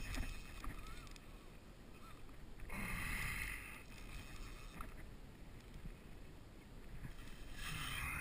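Water sloshing and swishing around a kayak, with wind rumbling on the microphone; two louder swishes come about three seconds in and near the end.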